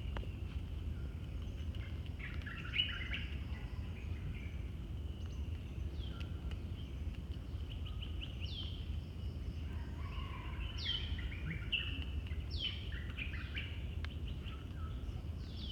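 Forest birds calling: several short calls that slide down in pitch, spaced a couple of seconds apart, and quick chattering runs of notes, over a steady high hum and a constant low rumble.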